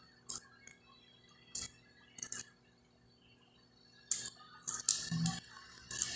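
Close-miked eating sounds: scattered short crunches and mouth clicks as small pieces of crisp fried fish are bitten and chewed, with quiet gaps between.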